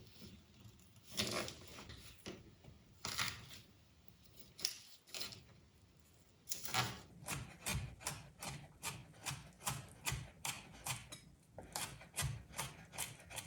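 Kitchen knife chopping on a cutting board: a few scattered knocks and handling sounds, then a steady run of chops about three a second starting about halfway in, with a short pause near the end.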